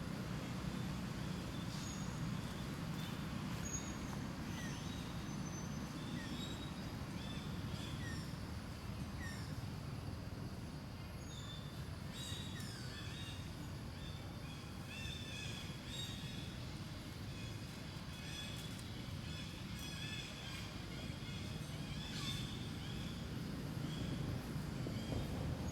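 Outdoor ambience: a steady low rumble of distant traffic, under many short, high animal chirps and squeaks, some sliding down in pitch, busiest in the second half.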